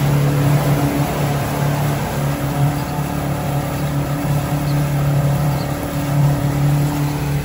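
An engine running steadily, a low even hum with a constant hiss over it.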